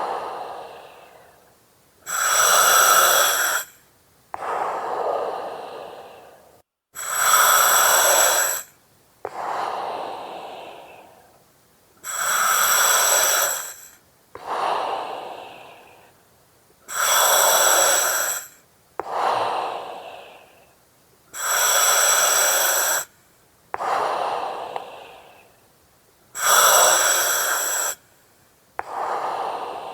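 Slow, regular breathing through an oxygen mask with the regulator's hiss. About six breath cycles: each has a loud, even hiss lasting under two seconds that starts and stops sharply, followed by a softer breath that fades away.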